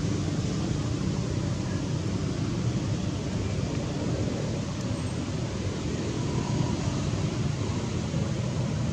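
Steady rumbling noise with a hiss above it, with no distinct calls or knocks.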